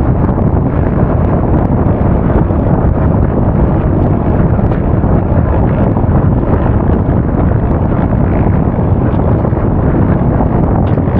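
Steady, loud wind buffeting an action camera's microphone as a motor scooter is ridden at speed; a dense low rumble that hides most other sound.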